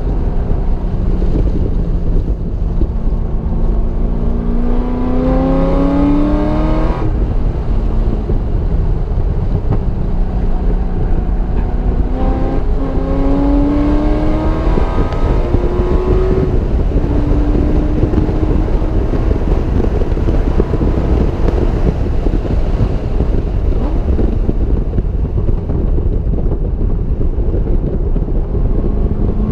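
Car engine accelerating hard through the gears, its pitch climbing and dropping back at gear changes, about seven and sixteen seconds in, over loud wind and road noise.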